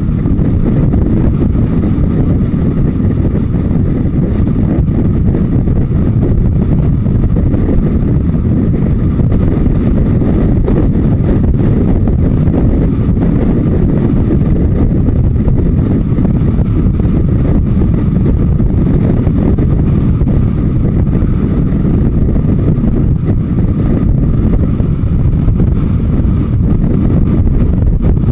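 Yamaha Diversion 900 motorcycle underway, with its air-cooled inline-four engine running under steady wind noise on the microphone.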